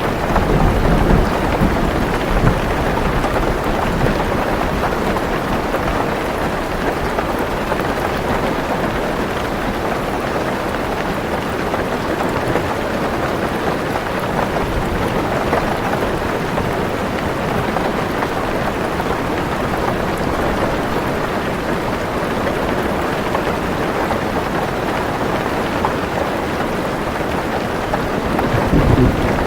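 Heavy rain falling steadily on a car roof, heard from inside the car, with low rolling thunder at the start and again near the end.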